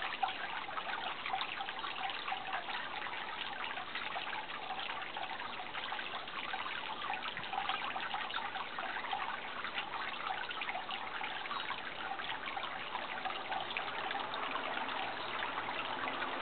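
Running water trickling steadily, a continuous babbling rush without pauses.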